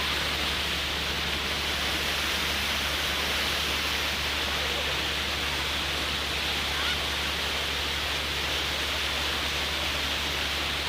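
Steady rushing noise over a low, steady hum, with no change in loudness.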